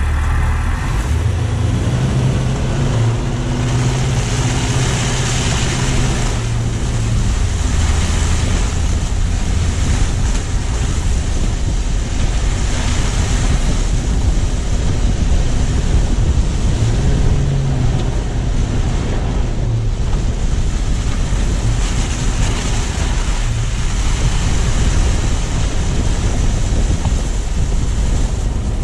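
Car on the move: a low engine note in the first few seconds, then steady rushing tyre and wind noise that swells and eases every few seconds, heard through a low-mounted GoPro's microphone.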